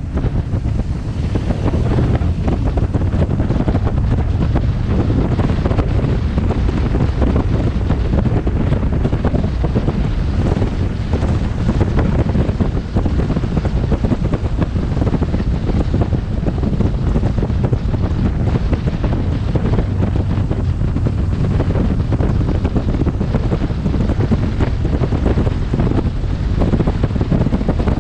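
Wind buffeting a helmet-mounted camera microphone on a moving motorcycle: a loud, steady rush, heaviest in the low rumble.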